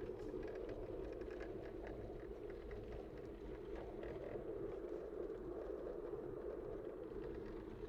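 Steady driving noise inside a 1994 Toyota Corolla on the move: engine drone and tyre rumble from the road.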